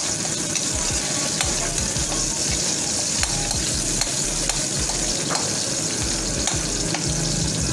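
Chopped aromatics sizzling in hot oil in a steel wok, a steady hiss, while a metal ladle stirs them and clicks and scrapes against the pan.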